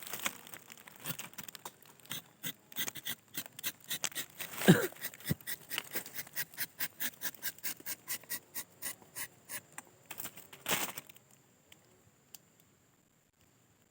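A rapid series of sharp clicks and taps, roughly four a second, with one brief falling squeak about five seconds in; the tapping stops about eleven seconds in.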